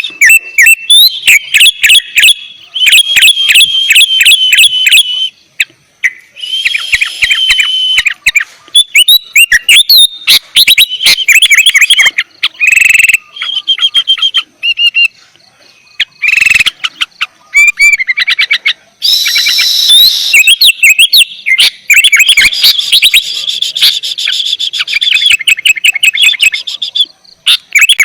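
Sooty-headed bulbul in full, non-stop song: loud, close bursts of rapid chattering notes, trills and quick whistles, broken by short pauses.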